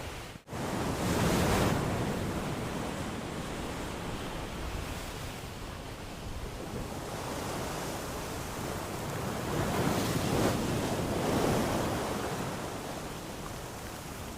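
Sea waves washing on a shore, swelling about a second in and again around ten seconds in. The sound drops out for an instant just after the start.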